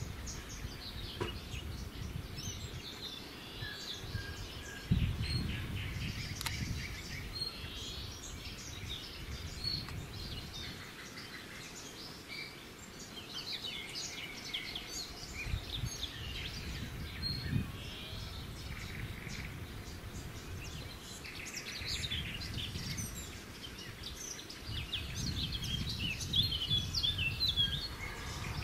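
Small birds chirping and trilling in many short calls, over a low, uneven rumble.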